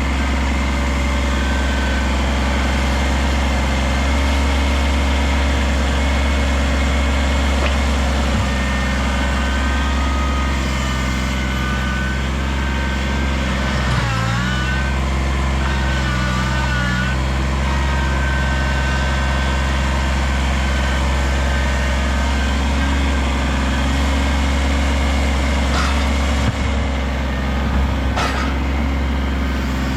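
Kubota BX compact tractor's three-cylinder diesel engine running steadily, with a brief wavering dip in pitch about halfway through and a few light knocks near the end.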